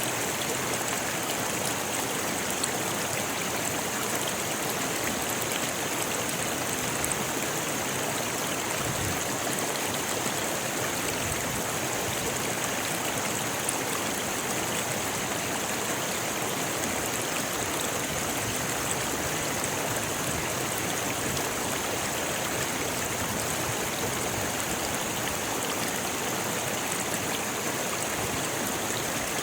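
Rocky river rushing steadily over stones, an even, unbroken flow of water.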